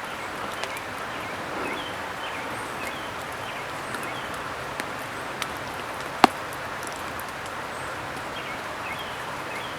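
Outdoor ambience in wet woods: a steady hiss with faint small-bird chirps scattered through it, and a single sharp tap about six seconds in.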